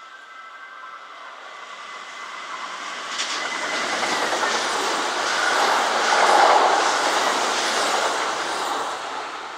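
Kintetsu electric train running through the station, its rolling and wheel clatter building to a peak about six seconds in and then fading.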